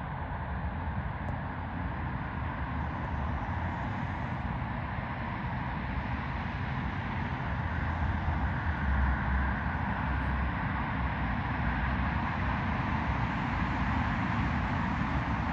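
Jet airliner engines running, a steady rumble and hiss that swells gradually and is loudest about nine seconds in.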